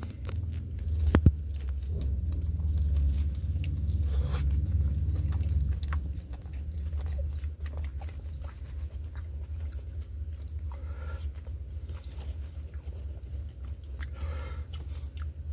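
A person biting into a grilled chicken wrap and chewing it, with wet, irregular mouth clicks and crackles. There is a sharp click about a second in. A steady low hum runs underneath.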